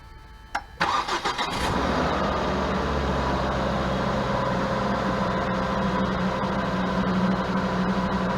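A click, then the Volvo S40 T5's five-cylinder turbo engine cranks briefly on the starter, catches about a second and a half in, and settles into a steady idle.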